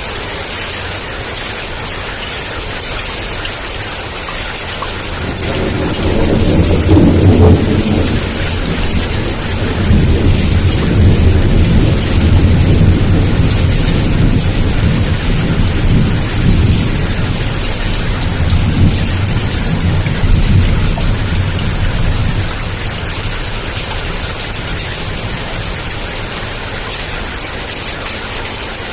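Heavy rain pouring steadily, with a long roll of thunder that builds about five seconds in, rumbles on for some fifteen seconds and fades away.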